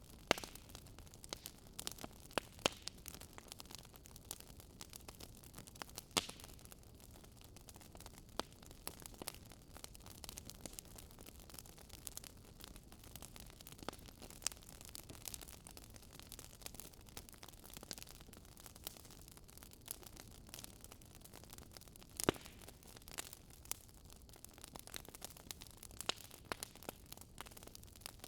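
Fire crackling: irregular sharp pops and snaps over a soft, steady hiss.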